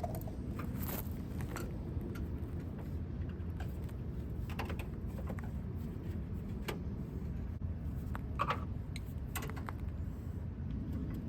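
Exhaust clamps and screws clinking and rattling now and then as they are taken off, over a steady low background hum.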